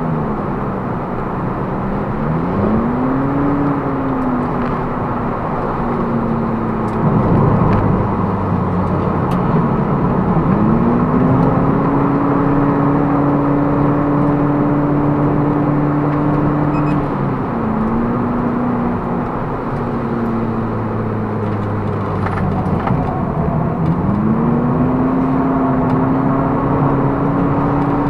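Toyota Prius ZVW30's 1.8-litre 2ZR-FXE engine being driven hard on track, heard inside the cabin over tyre and road noise. Its note climbs and then holds level for long stretches, dropping away and climbing back several times.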